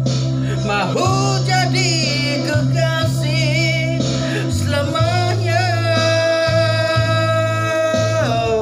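A song: a man singing with vibrato over guitar and a steady bass, holding a long note that slides down near the end.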